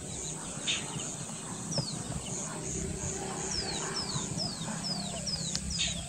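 Wild birdsong: a small bird repeats quick, high whistles that each slide downward, coming thicker in the second half, over faint other bird calls, short high pips and a steady low hum.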